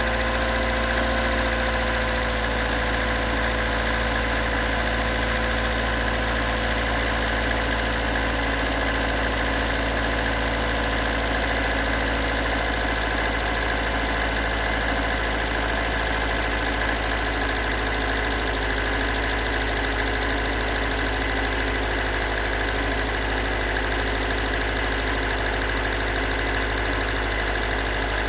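Toyota AE86's stock big-port 'blue top' 4A-GE 1.6-litre twin-cam four-cylinder engine idling steadily. It runs with the rough idle and knocking that the owner has not been able to trace.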